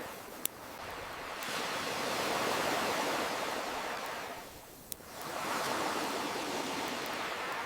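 Ocean waves washing in and out: a swell builds to a peak about two to three seconds in, ebbs near five seconds, then surges again. A campfire crackles with two sharp pops, one about half a second in and one near five seconds.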